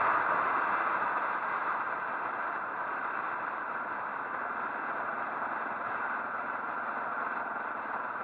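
Steady rushing wind and road noise from a moving motorcycle, easing a little over the first two seconds.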